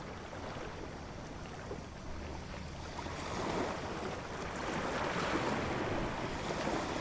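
Ocean waves washing in as a steady surf hiss, swelling louder about halfway through as a wave breaks and staying up near the end.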